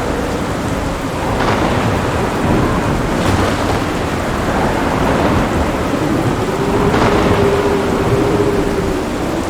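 Thunderstorm: steady heavy rain with rolling thunder, and a few sharp cracks of thunder, about a second and a half in, near three seconds and around seven seconds, where the rumble swells loudest.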